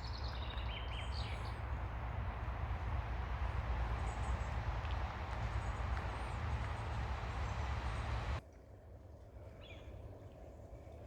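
Steady wash of ocean surf over a deep, constant low rumble, with a few short bird chirps near the start. About eight seconds in the sound cuts abruptly to a quieter, thinner surf ambience with one faint chirp.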